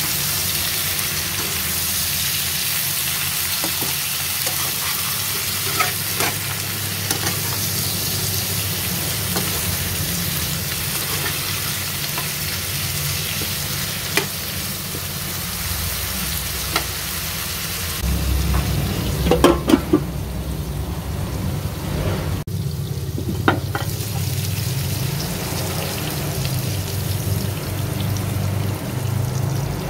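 Sliced eggplant sizzling in hot oil in a pan while it is stirred with a metal spatula, with occasional clicks and scrapes of the spatula against the pan. About two-thirds of the way through the hiss weakens and a short cluster of louder spatula knocks follows.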